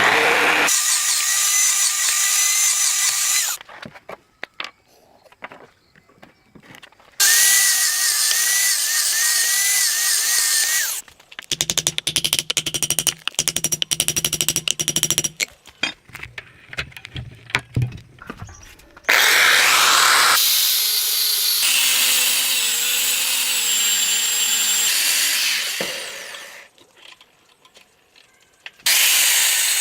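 An electric power tool run in several bursts of a few seconds each, with short pauses between, its motor pitch wavering under load. In the middle comes a stretch of rapid, evenly repeated strokes.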